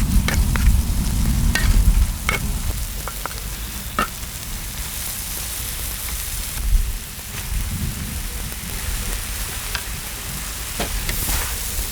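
Kimchi and small octopus sizzling as they stir-fry on a cast-iron cauldron-lid griddle, with short clicks and scrapes of stirring. A low rumble runs under the first two seconds, and the sizzle swells twice.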